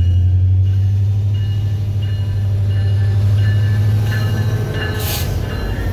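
A train passing close by: a steady low rumble with thin high squealing tones from the wheels on the rails, and a short hissing burst about five seconds in.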